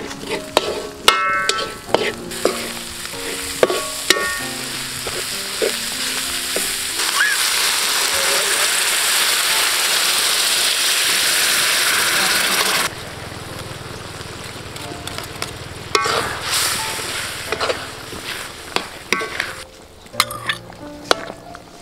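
Spice paste frying in a metal pan, stirred with a metal spoon that scrapes and clicks against the pan. About seven seconds in, a loud, even sizzle starts as liquid is poured onto the hot paste; it cuts off suddenly after about six seconds. Quieter bubbling and spoon stirring follow.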